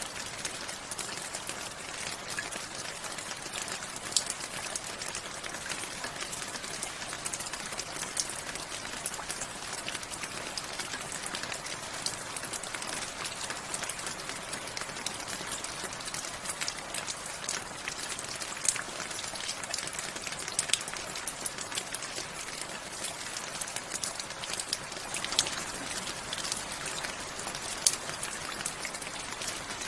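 Steady rain falling, an even hiss with many close drops ticking sharply on a hard surface, a few of them louder.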